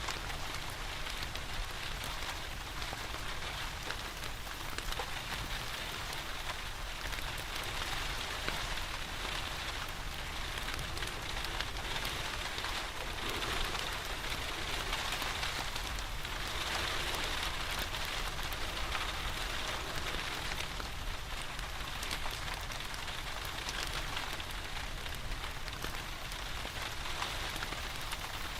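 Steady rain pattering, mixed with the crackle of a wood fire in a fireplace.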